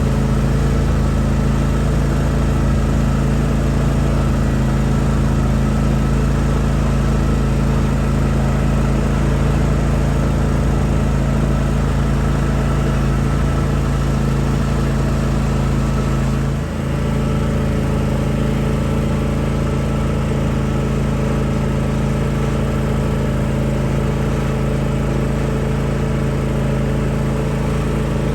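Vehicle engine running steadily at a constant speed, with a brief dip about 17 seconds in.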